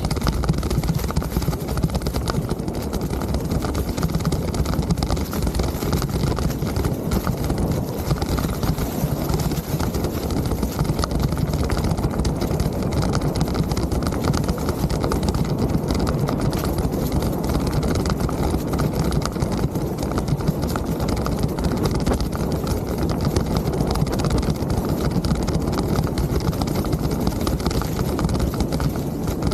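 Mountain bike in motion on a trail: a steady low rumble of wind and tyre noise with constant rattling and knocking from the bike over rough ground.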